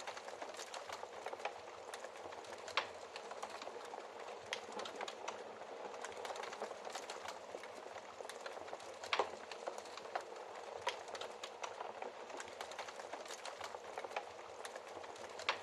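Wood fire crackling steadily, with many small ticks and scattered sharper pops; the loudest pops come about 3 seconds in and about 9 seconds in.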